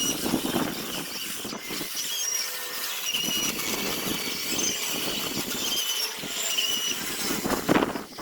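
Zelkova root wood being sanded: a continuous rough abrasive rasp with uneven strokes, punctuated about once a second by short high squeaks.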